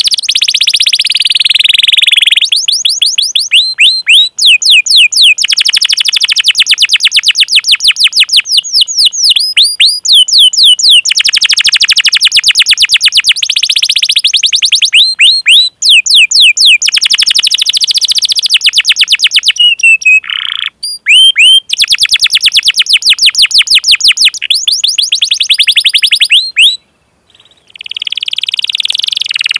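Domestic canary singing long rolling trills of rapidly repeated, falling 'cuit cuit' notes, with a brief break about halfway through and another near the end.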